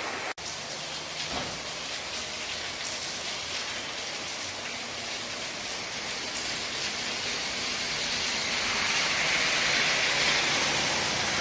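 Heavy rain falling with a steady hiss, which grows louder near the end. The sound cuts out for an instant just after the start.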